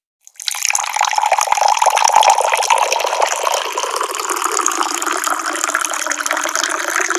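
Water pouring steadily from a tap, starting abruptly about half a second in after a brief silence.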